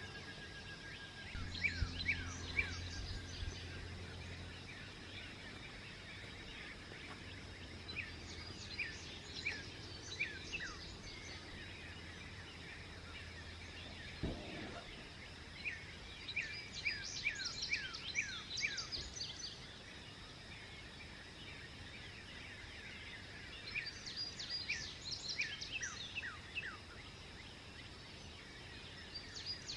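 Songbirds singing at dawn: bursts of quick, downward-sweeping chirps come roughly every seven to eight seconds over a steady outdoor background hiss. A low hum runs through the first half and ends with a short thud about fourteen seconds in.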